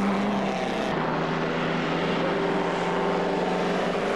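Engine of a pre-war racing car running at steady high revs, its pitch dipping slightly about a second in and then holding.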